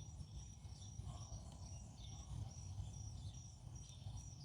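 Faint cricket chirping, an even high-pitched chirp about twice a second, over a low steady background hum.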